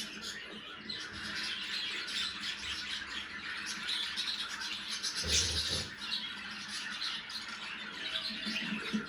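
Budgerigars chattering and squawking continuously, with a louder squawk and a dull bump a little past halfway.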